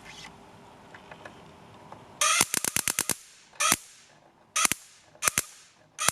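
Low-voltage semiconductor gas turbine igniter sparking, each capacitor discharge a sharp crack. About two seconds in there is a quick run of about eight snaps, then single or paired snaps come roughly every second.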